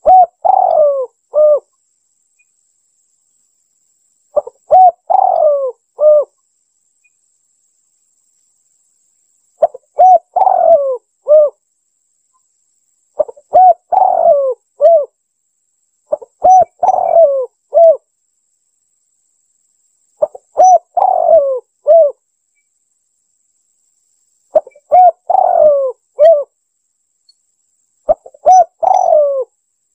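Spotted dove (tekukur) cooing: eight phrases of about three coo notes each, repeated every three to five seconds.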